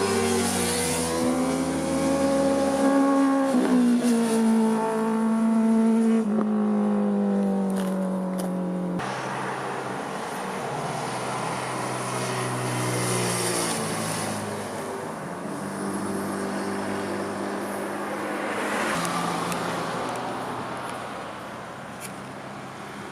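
Sport motorcycle engines passing at speed, revving with rising and falling pitch and steps in pitch at gear changes. The sound changes abruptly about nine seconds in to a second passing bike.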